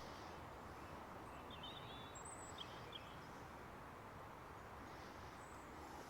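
Steady, faint rush of flowing river water, with a few faint bird chirps between about one and a half and three seconds in.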